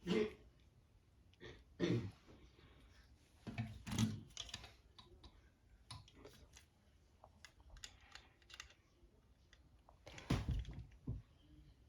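Small plastic construction-kit parts being handled and fitted: scattered light clicks and clatter, with a few louder knocks at the start, around two and four seconds in, and again near the end.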